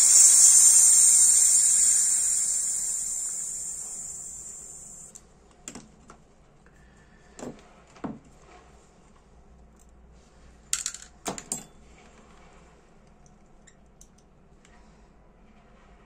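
Butane hissing out of a Dupont L2 lighter's gas tank as it is emptied, fading away over about five seconds. Then a few light clicks and taps.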